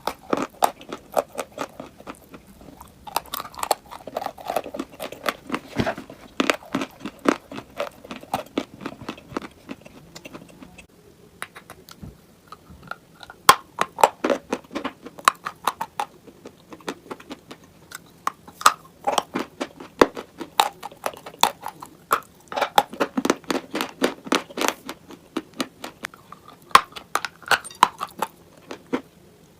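Close-miked crunching and chewing of brittle, chalk-like pieces, in runs of rapid crackly crunches broken by short pauses, with a lull about eleven seconds in.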